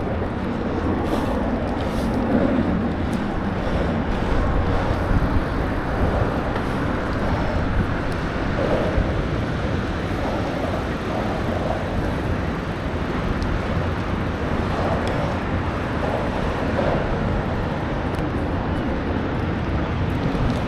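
Steady road and traffic noise picked up from a moving bicycle, with a continuous rumble strongest in the low end.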